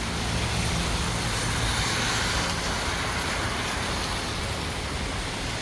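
Heavy rain pouring down in a steady wash, with a low hum underneath during the first half.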